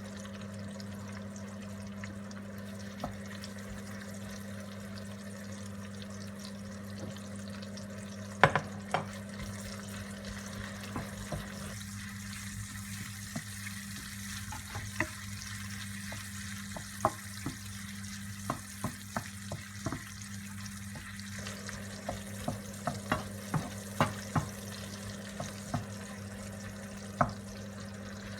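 Hotdogs frying in hot oil in a pan: a steady sizzle, with scattered sharp clicks and taps from about eight seconds in, the loudest one near the start of them. A steady low hum runs underneath.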